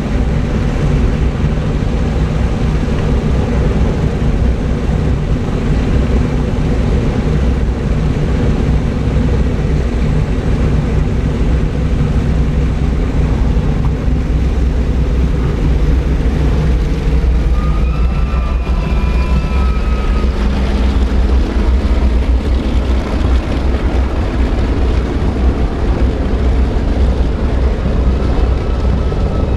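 Lockheed L-1049 Super Constellation's four Wright R-3350 radial piston engines running steadily, with the loud, deep drone of the propellers.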